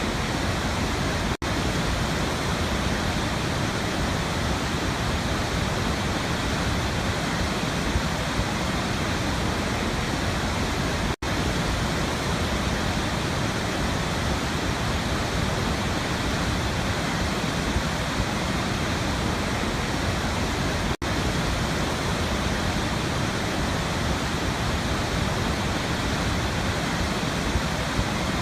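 Steady rushing of a waterfall, even and unchanging, that cuts out for an instant three times, about ten seconds apart, where the looped recording is spliced.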